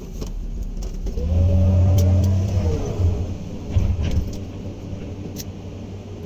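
Komatsu PC200 excavator's diesel engine running, rising in pitch and loading up about a second in, then easing back, with a few sharp knocks along the way.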